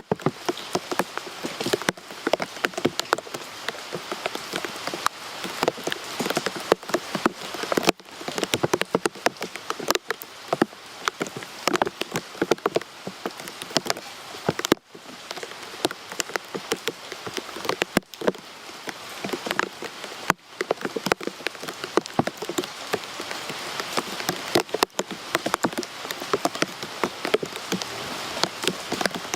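Steady rain, a dense hiss full of separate sharp drop hits on a hard surface. The sound cuts out for an instant several times.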